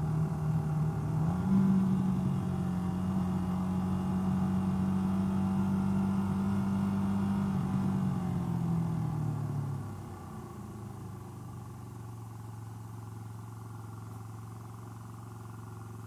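Honda XLR250R's single-cylinder four-stroke engine running on the move. Its note steps up about a second and a half in and holds steady, then falls away as the bike slows, settling to a quieter steady idle for the last several seconds.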